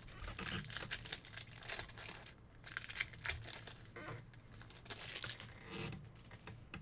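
Trading-card packs being torn open, their wrappers crinkling and crumpling in the hands, in irregular handling noise.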